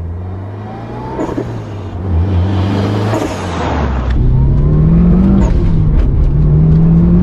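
Mitsubishi Lancer Evolution VI Tommi Mäkinen Edition's turbocharged 2-litre four-cylinder accelerating hard past at road level, loudest about three seconds in. Then it is heard from inside the cabin pulling up through the gears: the engine note rises, dips at an upshift a little past halfway, and rises again.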